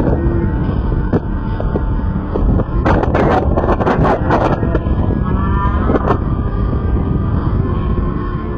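Loud steady rumble of wind buffeting the microphone, with a cluster of sharp cracks about three to four and a half seconds in and one more near six seconds.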